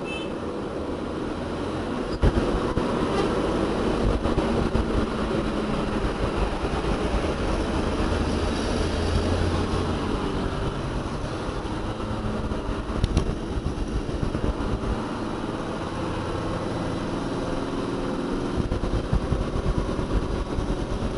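Heavy diesel engine of construction equipment running steadily, its pitch rising and falling as it works, with a sharp metallic knock about two seconds in and another around thirteen seconds.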